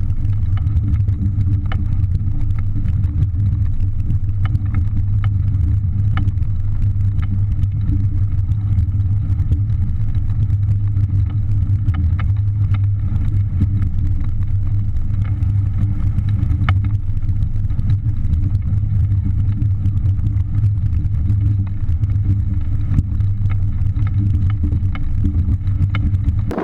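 Small outboard motor running at a steady speed, a constant low hum with a few scattered light clicks over it.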